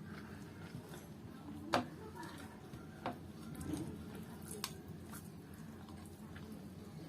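Close-up eating sounds: a person chewing a mouthful of rice and curry, with three sharp mouth smacks, the loudest a little under two seconds in.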